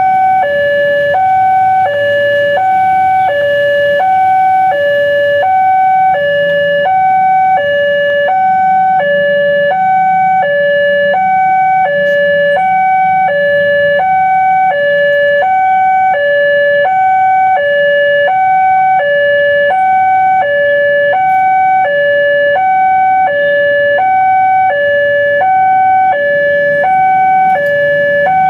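Railway level-crossing warning alarm sounding as the barrier is down: an electronic two-tone signal alternating evenly between a higher and a lower tone, each held about half a second.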